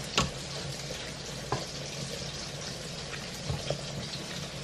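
Steady sizzle of food frying, with a few light clicks of metal tongs against the stainless steel inner pot as browned meatballs are set into the sauce.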